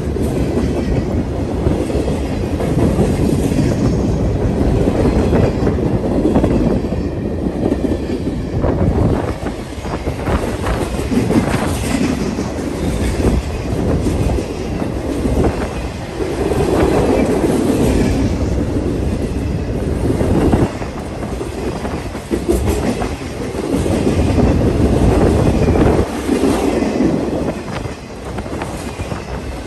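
Long freight train rolling past, a steady rumble with wheels clicking over rail joints.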